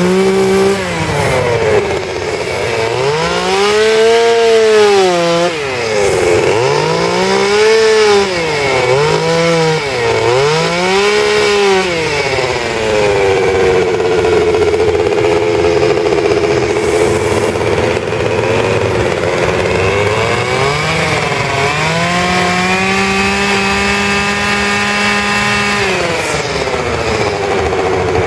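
Two-stroke chainsaw engine revving up and down several times in quick swells, then held at high revs for a few seconds, as in carving wood, before dropping back near the end.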